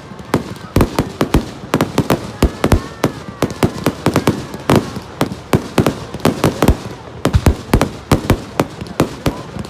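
Fireworks going off in a rapid, irregular barrage: many sharp bangs and cracks, several a second.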